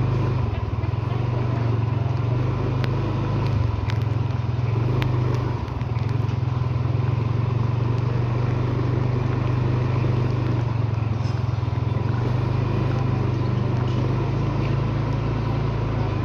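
Steady low drone of a moving road vehicle's engine and road noise, with a few faint clicks.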